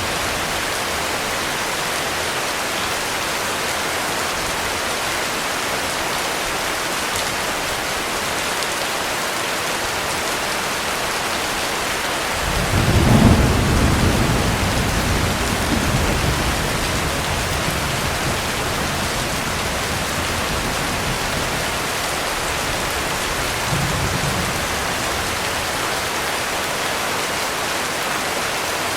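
Heavy rain falling steadily. About halfway through, a roll of thunder swells and rumbles off over several seconds, and a weaker rumble follows near the end.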